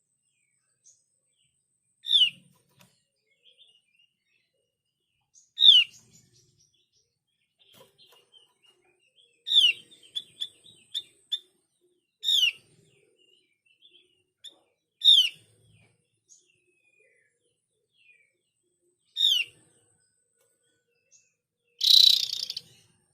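Javan grey-throated white-eye (opior jawa) calling: a sharp, falling note repeated about every three seconds, with a quick run of short chirps about ten seconds in and a louder, harsher burst near the end.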